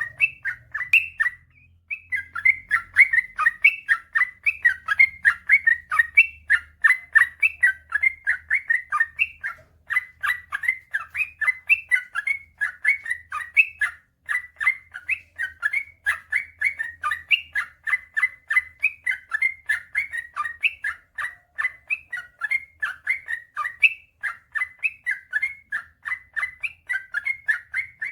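Yellow-vented bulbul (trucukan) singing a long, rapid run of bubbling chirpy notes, broken only by a few brief pauses.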